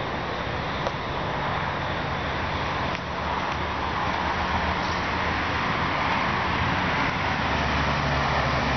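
Steady road traffic noise of passing cars, with the hum of an engine growing gradually louder toward the end as a vehicle approaches.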